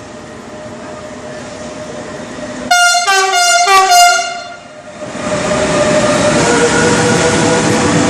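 A train approaching, sounding its two-tone horn in about four short alternating blasts about three seconds in, then running past close by, loud and steady.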